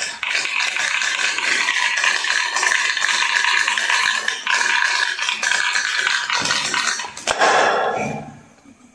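Two dice rattling fast and continuously inside a small plastic cup as it is shaken. Near the end the rattling stops and the cup is brought down onto a concrete floor.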